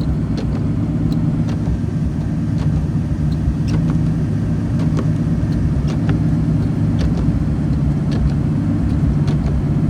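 Mk3 Toyota Supra's inline-six engine idling steadily with a low, even hum, which the owner says is running slightly rich. Scattered light ticks of rain hitting the car sound over it.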